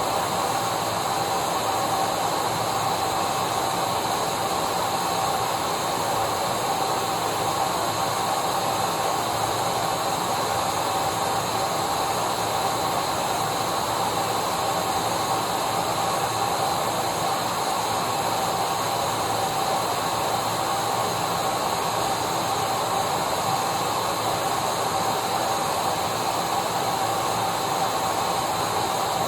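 Vacuum cleaner running steadily: a constant rush of air with a steady whine, unchanging throughout.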